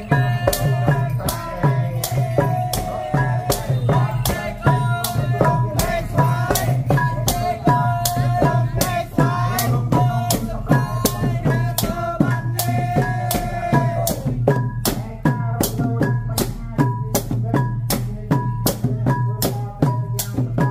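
Khmer chhay-yam ensemble music: drums and rattling percussion beat a steady rhythm under a wavering lead melody. About fourteen seconds in, the melody stops and the percussion carries on alone.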